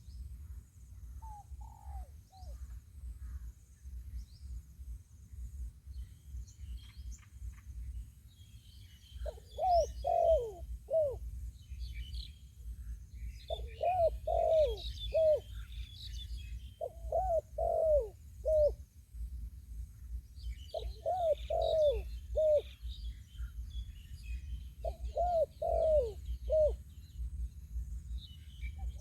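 Spotted dove cooing: five phrases of three or four falling coos, about one every four seconds, with a faint single coo near the start. Small birds chirp faintly alongside, over a steady low rumble.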